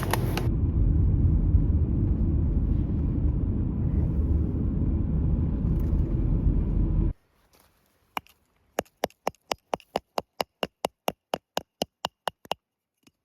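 Steady low road rumble of a car driving, which cuts off abruptly about seven seconds in. Then a quick, even run of about twenty sharp taps, four or five a second.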